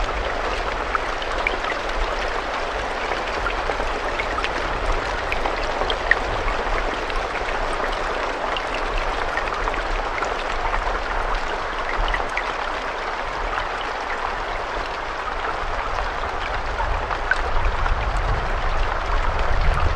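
Steady rain: an even hiss with scattered individual raindrops ticking through it, over a low rumble that grows stronger near the end.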